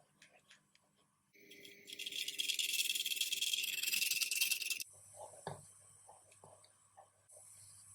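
Food sizzling and crackling in a hot frying pan, a dense hiss that starts about a second and a half in and cuts off sharply after about three and a half seconds. Soft kitchen clicks and small knocks come before and after it.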